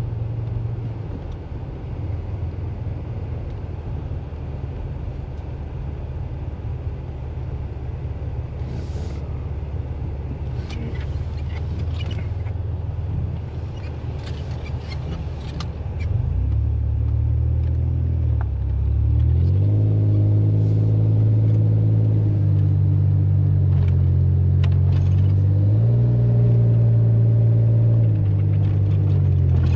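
A vehicle engine running at a low steady idle, with a few faint clicks. About 16 s in it grows louder, and its pitch steps up and down several times as it revs under load.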